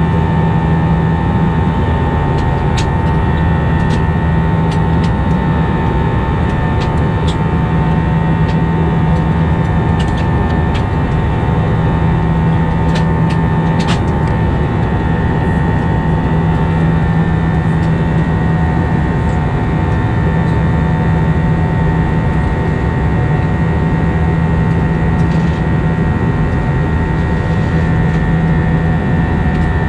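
Steady cabin drone of an Airbus A320 in flight: engine and airflow noise with a low hum and a higher whine held at a constant pitch. A few faint ticks and rattles come in the first half.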